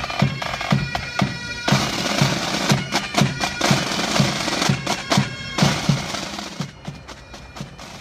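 Military pipe band playing: bagpipes sounding steady drones and melody over a marching drum beat of about two strokes a second. A rush of noise runs through the middle few seconds.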